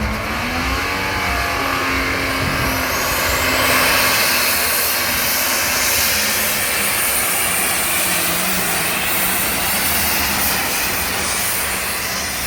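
Pulling tractor's engine running loud at high revs under load, with a high whine climbing in pitch about a second in.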